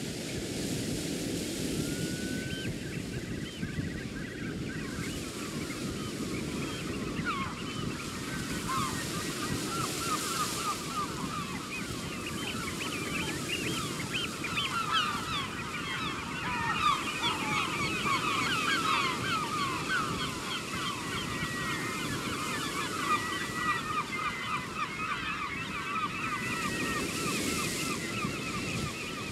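Surf washing on the shore under a large flock of birds calling. A few calls come in at first and build into a dense, overlapping chorus of short calls, then thin out toward the end.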